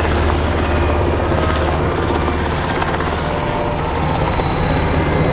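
MH-60R Seahawk helicopter in flight: a steady, loud rotor beat over the whine of its twin turboshaft engines.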